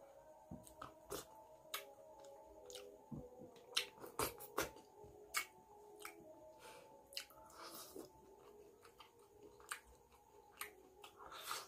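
Close-up eating sounds of rice and chicken curry eaten by hand: wet chewing and lip smacks with scattered sharp clicks, a few louder ones about four seconds in.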